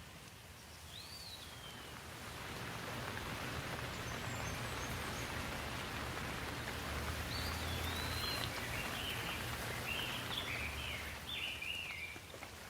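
Steady rain hiss that swells a couple of seconds in and eases off near the end. A bird gives one call early on and a run of quick chirping notes in the second half.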